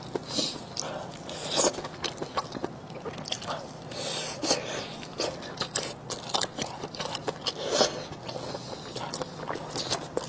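Close-miked eating: wet chewing and lip smacks in an irregular run of short clicks, with sticky sounds of gloved fingers pulling apart a sausage coated in chili sauce.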